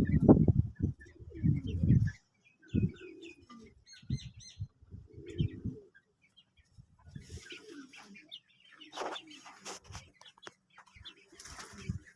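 Caged quails calling with short, high chirps, and rustling with flutters of wings in the second half. Loud low bursts fill the first two seconds.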